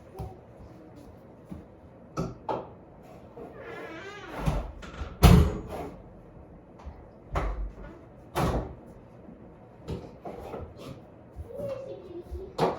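Several household knocks and bangs, like doors or cupboards being handled, the loudest a sharp bang about five seconds in.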